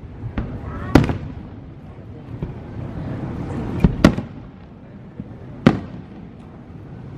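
Fireworks display: aerial shells bursting in loud, sharp booms, about four big bangs with smaller cracks and crackle between them, each echoing briefly.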